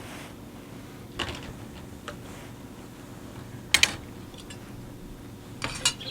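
A cat eating wet food from a tin can, with a few sharp clicks as the can is knocked: one a second in, a loud double click midway and a quick cluster near the end.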